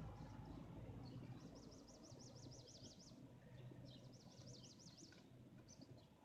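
Faint birdsong: a songbird sings two quick trilled phrases of rapidly repeated high notes, each lasting about a second and a half, with scattered short chirps around them, over a low rumble of wind.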